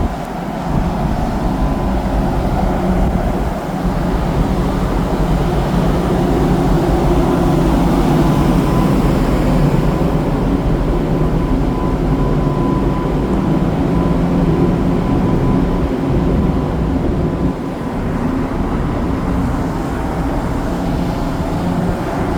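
Steady low rumble of a car ferry underway, its engines droning, with a faint steady hum on top.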